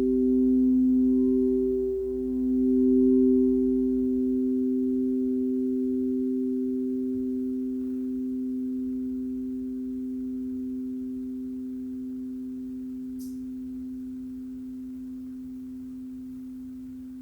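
Crystal singing bowls ringing in long, pure tones, one lower note and one higher note together. The sound pulses and wavers for the first few seconds, then settles and slowly fades.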